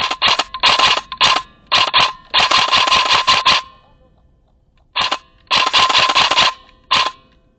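Airsoft rifle firing in full-auto bursts: rapid clattering shots with a steady motor whine under them. There are about six short bursts and one longer one of over a second in the first three and a half seconds, then a pause, then three more bursts, one of them about a second long.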